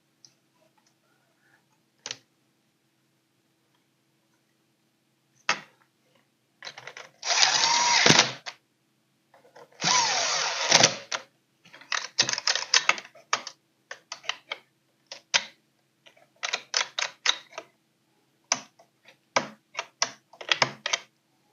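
Power driver driving screws into a chainsaw: two runs of about a second each, then a long series of short trigger bursts as the screws are run down.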